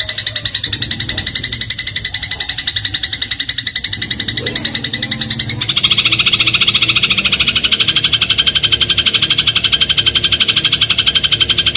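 Eurasian tree sparrow giving a rapid, continuous rattling chatter of about ten notes a second, with a high, ringing tone. About halfway through, the chatter shifts to a fuller, lower-set version of the same rattle.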